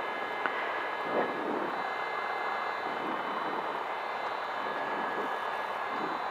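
Cessna 172 engine running steadily at low power, heard from inside the cabin, with a few faint steady high tones over it.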